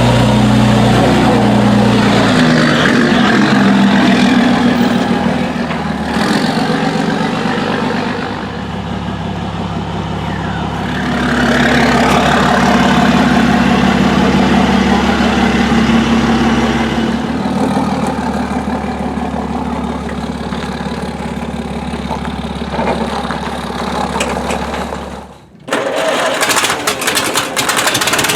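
An engine running steadily, its speed shifting several times. About 25 seconds in it breaks off abruptly, and another engine is heard idling with a rapid ticking knock.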